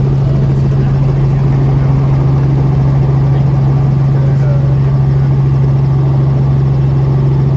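Helicopter in flight, heard from inside the cabin: a loud, steady drone with a strong low hum over rushing noise, unchanging throughout.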